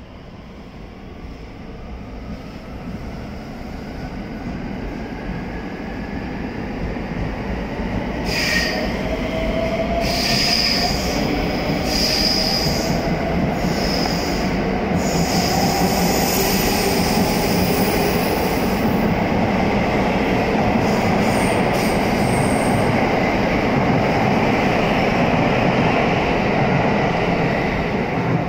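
683-series electric multiple-unit train pulling away and accelerating past. The traction motors' whine climbs in pitch as the sound builds to a steady rumble of wheels on rail, with brief high squeals in the middle.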